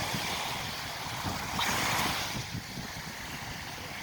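Sea waves washing onto the shore, one surge swelling about one and a half to two seconds in, with wind buffeting the microphone.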